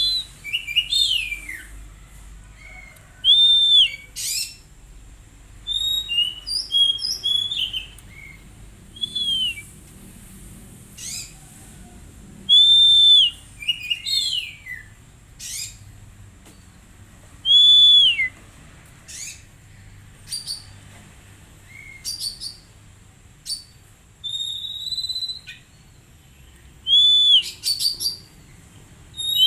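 Oriental magpie-robin (kacer) singing: short phrases of clear whistled notes and quick sweeping chirps, repeated every second or two with brief pauses between.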